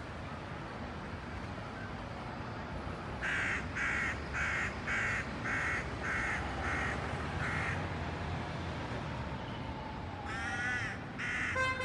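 A bird giving a run of about eight harsh calls, roughly two a second, starting a few seconds in, then another call near the end, over a steady low hum of city street noise.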